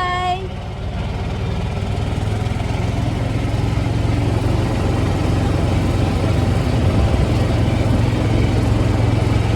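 A vehicle's engine running with a steady low hum under an even rushing noise; the hum strengthens about two seconds in.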